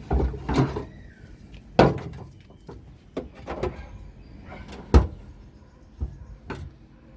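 A series of irregular knocks and bangs, about seven, with the loudest about five seconds in.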